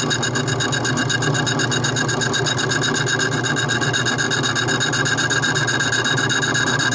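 Small metal lathe running steadily with a high whine, taking light shaving cuts off a soft bronze valve plug.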